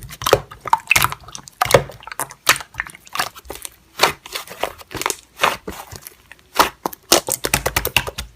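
Slime being pressed and squished by hand, giving a fast, irregular run of crackling clicks and pops.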